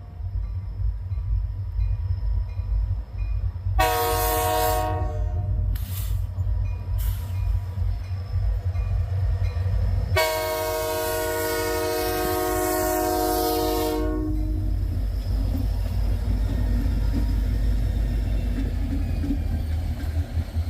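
Freight locomotive air horn sounding two blasts, the first about 4 seconds in and a longer one of about four seconds starting about 10 seconds in. Both sound over a steady low rumble of the passing train and wind on the microphone.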